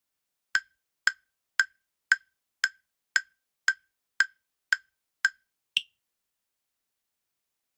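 Countdown timer sound effect: eleven short wood-block-like ticks, about two a second, the last one higher-pitched, marking the time allowed for answering.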